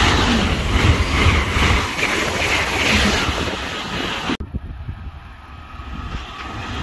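Train running past along a station platform: a commuter rail diesel locomotive's rumble and rail noise with wind on the microphone, which cuts off abruptly about four seconds in. A second train, an Amtrak Acela, then approaches, its noise building steadily.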